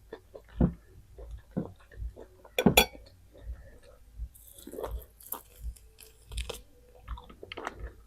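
Close-miked chewing and biting of a person eating: irregular wet mouth clicks and smacks, with a sharp, louder crunch a little under three seconds in.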